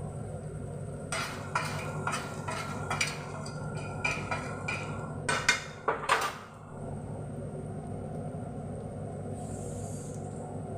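A metal utensil stirring and scraping frying onion and spice paste in an oiled kerahi, a run of clinks and scrapes against the pan from about a second in until about six and a half seconds, over a steady low hum.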